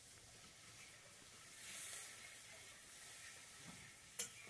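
Onions and ground spices frying in mustard oil in a kadai: a faint, even sizzling hiss that swells a little about two seconds in, with a single sharp tap near the end.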